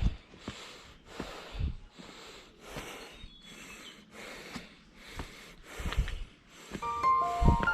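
A person's heavy, rhythmic breathing while climbing uphill on foot, about two breaths a second, panting from the exertion, with occasional low thumps. Music fades in near the end.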